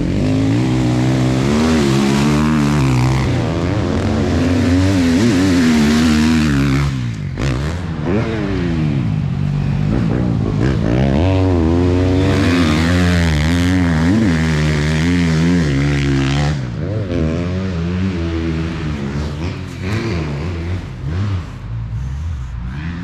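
Motocross bike engines revving hard, their pitch rising and falling over and over as the throttle is opened and closed, easing off briefly about seven and sixteen seconds in.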